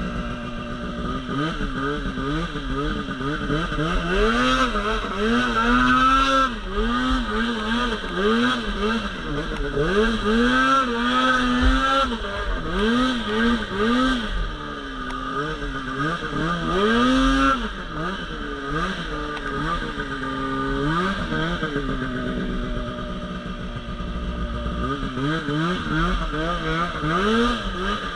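Two-stroke engine of a Polaris Pro RMK 800 snowmobile revving up and down over and over while it is ridden, its pitch rising and falling about once a second.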